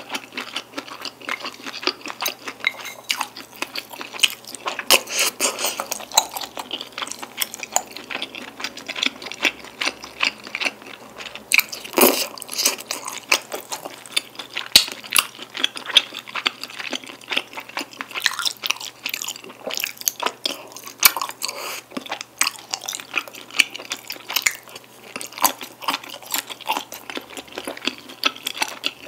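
Close-miked chewing of jjajang tteokbokki: chewy rice cakes and noodles in thick black-bean sauce, making an irregular stream of wet, sticky mouth clicks and smacks. One louder click comes about twelve seconds in.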